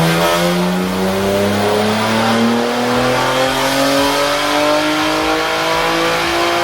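BMW S58 twin-turbo inline-six in a tuned G80 M3 at full throttle on a chassis dyno, pulling up through the rev range in one gear. The pitch rises steadily and the level stays loud throughout.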